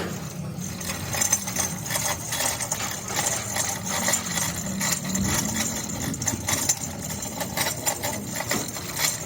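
Irregular knocking and clinking of metal tools on engine parts, many sharp strokes close together over a low steady hum.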